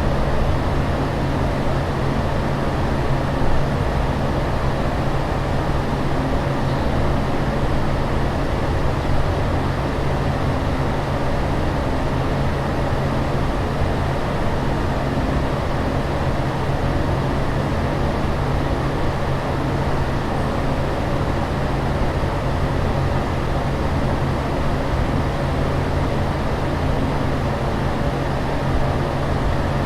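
Steady airliner cabin noise in flight: a constant rushing drone with a low hum underneath, unchanging throughout.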